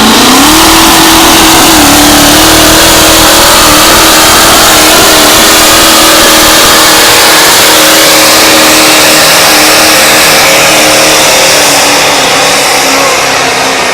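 Competition pulling truck's engine at full throttle down the pull track. It revs up just after the start, holds a high, steady note, then eases off near the end as the truck shuts down.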